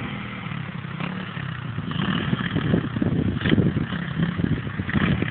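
Dirt bike engine running, its revs varying and the sound growing louder in the second half.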